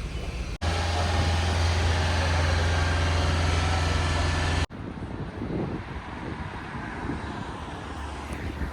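A steady, loud, low engine drone with an even hum, which cuts in and out abruptly. It is followed by quieter outdoor street ambience with passing traffic.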